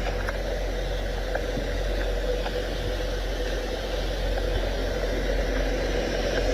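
Steady low hum of an idling truck engine, with a few faint clicks.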